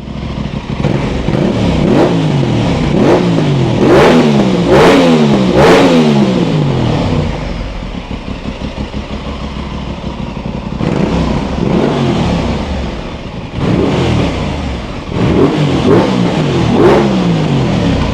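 Motorcycle engine revved repeatedly in two spells, its pitch swooping up and falling back after each rev, running lower and steadier between the spells.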